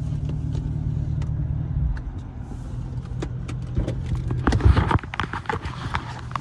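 Car engine running at low speed with a steady low hum that drops off about two seconds in. Scattered sharp clicks and knocks follow in the second half.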